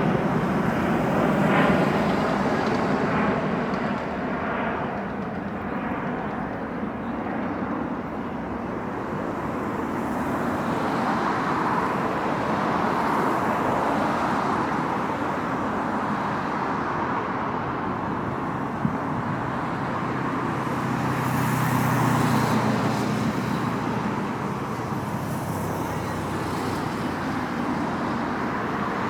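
Jet airliner engines after takeoff, loudest at the start and fading away through the first several seconds, with a steady rumble of road traffic underneath.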